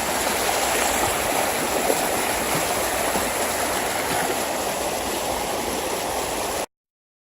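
Water coming out of a drainage pipe and rushing through a ditch, dammed by detritus: a steady rushing that cuts off suddenly near the end.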